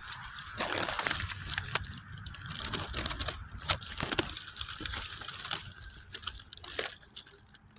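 Dry leaf litter crunching and crackling, as if underfoot, with scattered sharp snaps; it grows quieter near the end.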